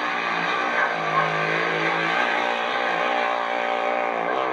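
Vehicle engine revving hard under load, its pitch wavering up and down.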